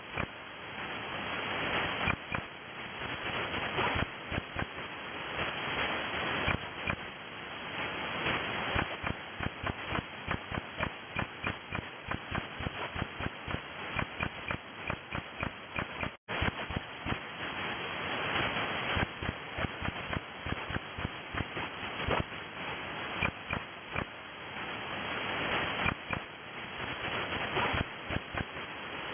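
Shortwave receiver audio of an unidentified signal: a fast, irregular crackle of pulses over hiss, cut off at the receiver's narrow bandwidth, with a brief dropout about halfway through.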